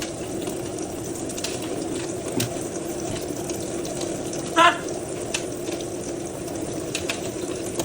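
Water running steadily from a tap, with a few light splashes and one short, loud call a little past halfway through.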